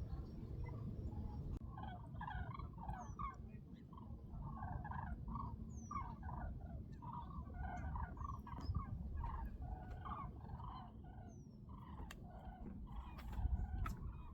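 A large flock of waterbirds calling together: a continuous chorus of many short, overlapping calls, over a low rumble.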